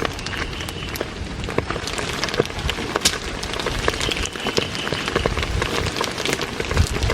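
Heavy rain falling steadily, with frequent sharp taps of single drops striking a nearby surface.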